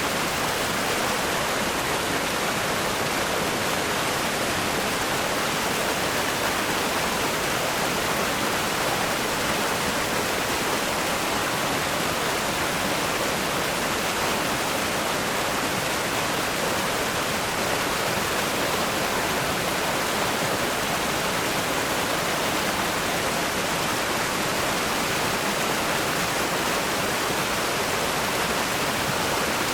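River rapids rushing strongly over rocks: a steady, even rush of white water that does not let up.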